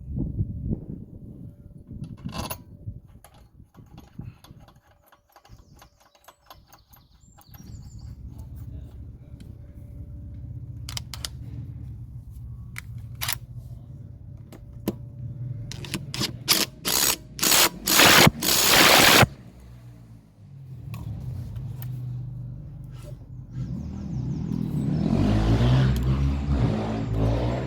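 Cordless impact driver running a nut back on and hammering it tight, in loud bursts of rapid impacts about two thirds of the way through, with clatter from handling the tool and parts at the start.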